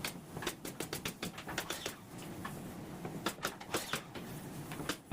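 Irregular light clicks and taps, several a second, over a steady low hum, like work with wood and tools.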